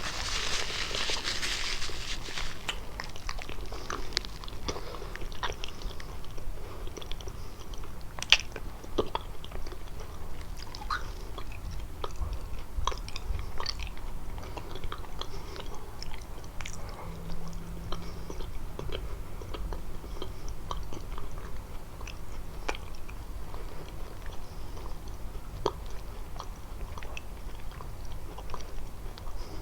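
Close-miked biting and chewing of kalaj pastry, with small, irregular wet crackles and crunches throughout. One sharper crunch comes about 8 seconds in, and there is a brief rustling hiss at the start.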